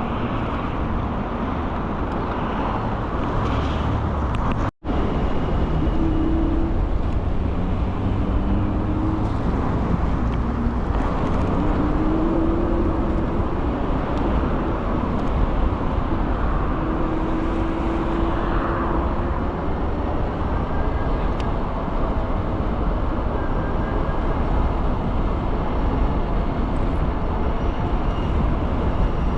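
Steady wind and road noise from riding an electric scooter in city traffic, with faint wavering tones underneath. The sound cuts out for an instant about five seconds in.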